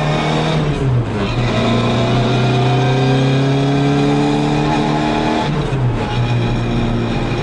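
Classic Mini Cooper S rally car's four-cylinder engine, heard from inside the cabin, revving up hard through the gears. The pitch climbs, drops at an upshift about a second in, climbs steadily again, and drops at a second upshift about two-thirds of the way through.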